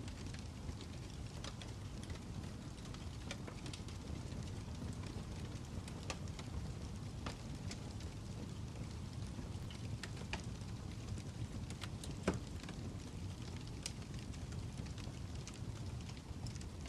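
Fire crackling: a steady low rumble with scattered sharp pops, one louder pop about twelve seconds in.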